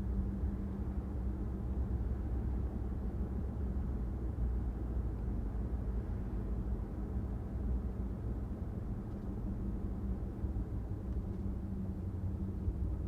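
Steady low rumble of a car on the move: engine and tyre noise with a faint steady hum, no sudden events.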